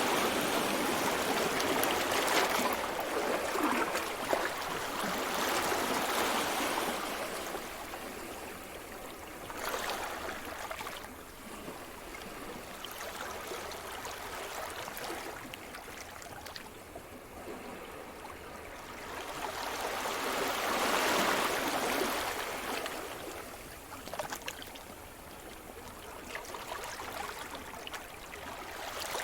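Sea surf: waves washing in and drawing back as a steady hiss that swells and ebbs. It is loudest over the first few seconds, swells again about two-thirds of the way through, and starts rising once more near the end.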